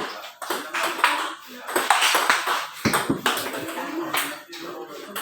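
Table tennis rally: the celluloid ball clicking back and forth off the paddles and bouncing on the table in a quick exchange of strokes, with voices in the background.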